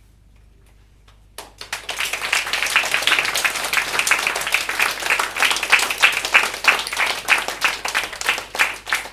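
Audience applauding, starting suddenly about a second and a half in after a quiet pause, then thinning to scattered individual claps near the end.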